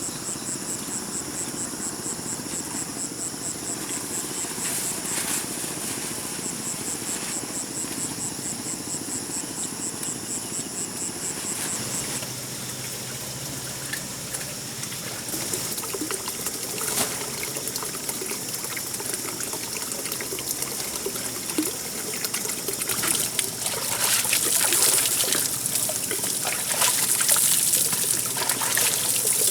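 Insects chirping in a high, rapid pulsing call for about the first twelve seconds. Then water trickling and splashing, louder near the end.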